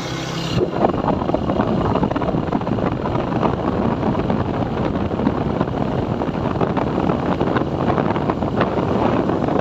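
Wind rushing and buffeting on the microphone of a moving motorcycle, a constant gusting noise that covers the engine. It starts suddenly about half a second in, replacing a steadier engine hum.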